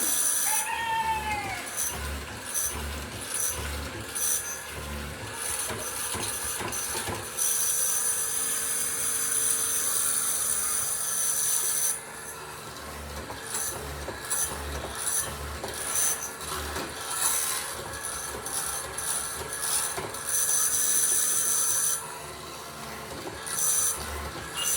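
Wood being rubbed or worked by hand with an abrasive, a hissing scrape that comes in repeated strokes with a few longer runs. A rooster crows about a second in.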